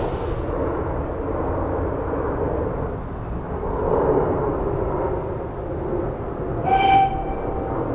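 Small steam railway train running with a steady low rumble; a high steam hiss cuts off about half a second in. A brief high tone sounds near the end.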